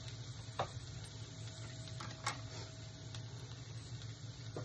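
Chopped garlic, ginger and green chilli frying gently in foaming butter in a steel pan: a faint sizzle with a few small pops, over a steady low hum.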